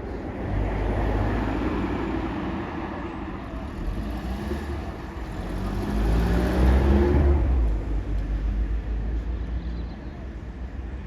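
Road traffic: a car passes on the street, then a second, louder vehicle goes by close about six seconds in, its engine and tyre noise swelling and fading.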